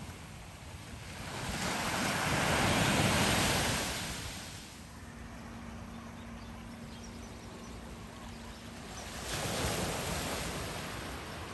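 Ocean waves breaking and washing on the shore, two surges swelling and fading, the first one larger, over a steady background wash of surf.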